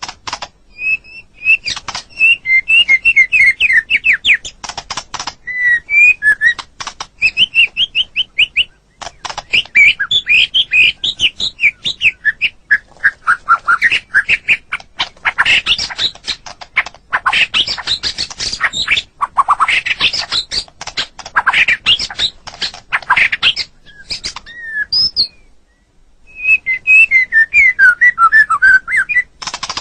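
White-rumped shama (murai batu) singing a loud, varied song: rapid runs of repeated whistled notes, sweeping phrases and harsh rattling trills, broken by short pauses, the longest near the end.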